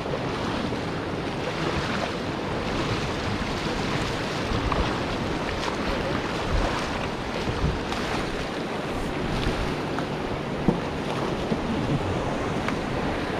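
Ganges river water rushing and splashing around an inflatable raft as the crew paddles forward, with scattered paddle splashes and a single knock about two-thirds of the way through. Wind buffets the microphone.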